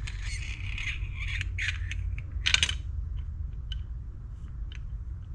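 Small metal fishing-reel parts being handled and fitted: scraping for the first couple of seconds, one louder clink about two and a half seconds in, then scattered light clicks, over a steady low hum.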